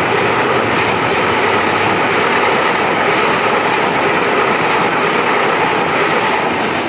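Train passing close by: a loud, steady rumble of wheels on the rails.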